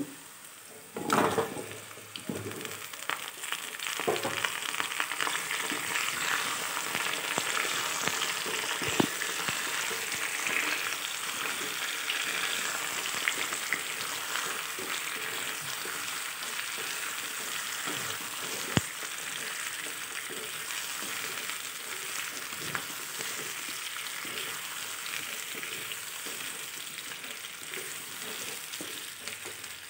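Chunks of ash gourd going into hot oil with fried onions, a louder sizzle about a second in, then a steady sizzle as they fry and are stirred with a wooden spatula in a wok. A few sharp knocks of the spatula on the pan.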